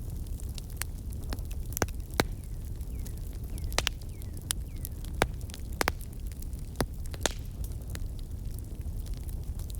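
Wood campfire crackling: sharp, irregular pops and snaps, a few of them louder, over a steady low rumble of burning.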